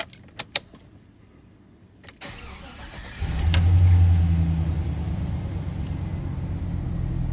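Keys jingle at the ignition, then a Chevrolet Silverado's LS V8 cranks for about a second, fires, flares up in revs and settles into a steady idle. It is the first start after replacing the hardened oil pickup tube O-ring and refilling with fresh oil.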